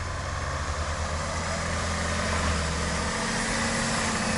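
A car engine running steadily, getting gradually a little louder.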